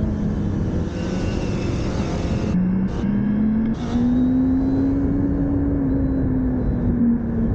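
Motorcycle engine running at track speed, with a heavy rush of wind on the microphone. Its note steps down and back up a few times about three seconds in, then climbs and slowly eases off.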